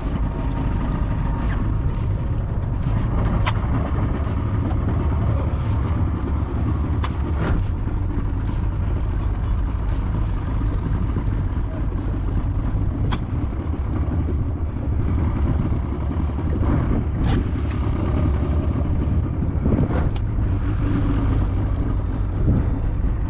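Yamaha outboard motor running steadily under load while towing a disabled yacht of about two tons.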